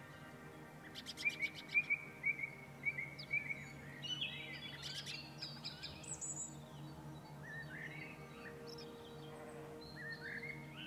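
Songbirds singing: a run of repeated chirps and very high, rapid trills, loudest in the first few seconds and picking up again near the end. Beneath them run soft, steady, sustained low tones, like background music.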